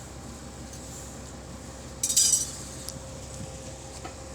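A brief metallic clink and rattle about two seconds in, like metal hardware knocking together, over a steady low hum.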